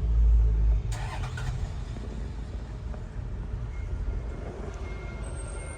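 A low rumble that is strongest in the first second and then drops to a steadier background noise, with a brief rustle about a second in.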